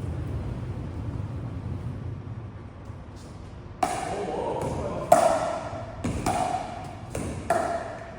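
Pickleball paddles hitting a plastic ball back and forth, about five sharp hits roughly a second apart starting about four seconds in, each echoing in a large hall. Before the hits, only a low steady rumble.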